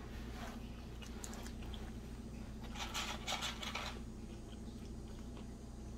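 A person chewing a mouthful of breaded fried chicken sandwich close to the microphone: short crackly, crunchy mouth sounds in two spells, the louder about three seconds in, over a steady low hum.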